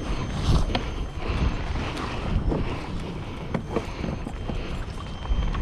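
Wind buffeting the microphone on a kayak, with scattered light clicks and knocks of fishing gear being handled.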